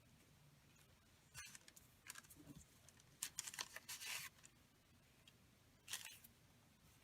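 Faint, intermittent rustling and handling of paper cutouts, in a few short scattered bursts with the loudest cluster about three to four seconds in.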